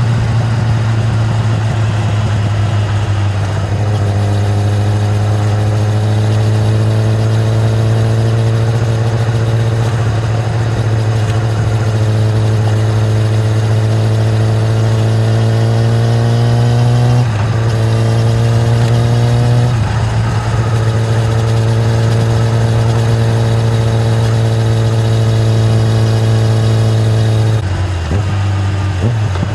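2013 Kawasaki ZX-10R's inline-four engine on its stock exhaust, running under load while riding. Its pitch climbs slowly, breaks briefly twice about two-thirds of the way through, then falls away near the end as the throttle eases.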